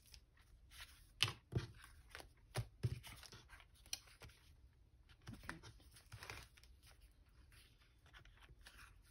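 Paper and card being handled: short rustles and a few sharp taps as pieces are moved about and laid down, most of them in the first three seconds.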